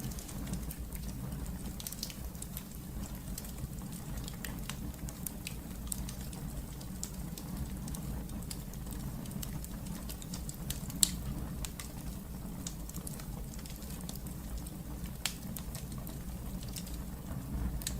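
Wood fire in a fireplace crackling: a steady low rumble of the flames with irregular small pops and snaps, one sharper pop about eleven seconds in.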